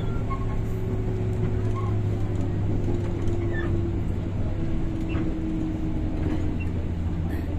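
Running noise inside the motor car of a JR 205 series electric commuter train at speed: a steady rumble of wheels on rail with a steady hum from the traction motors.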